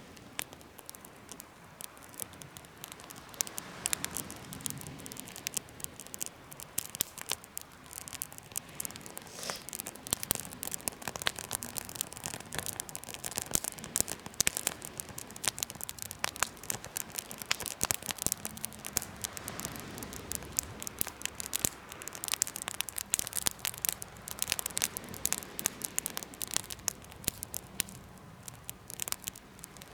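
Wood fire burning in a homemade fire pit, crackling with dense, irregular pops and snaps over a faint steady hiss.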